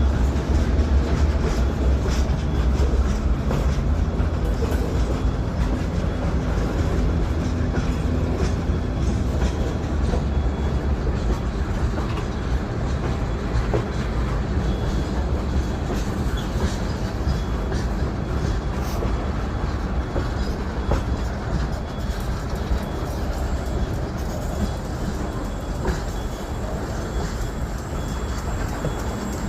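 Freight train rolling past: a heavy, low locomotive rumble that eases off over the first ten seconds or so, under a steady clatter of wheels on the rails.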